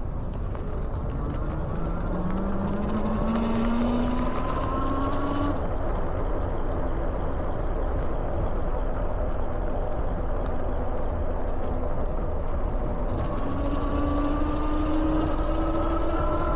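Dual-motor electric bike's hub motors whining and rising in pitch as it speeds up for a few seconds, then cutting off. The whine rises again near the end, over a steady rumble of wind and tyres.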